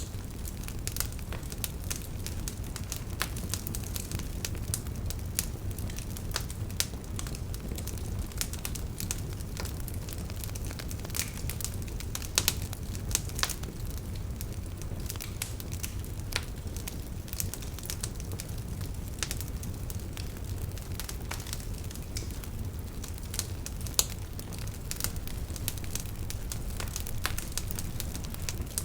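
Wood fire burning: a steady low rumble with irregular crackles and sharp pops throughout, the loudest pops about twelve and twenty-four seconds in.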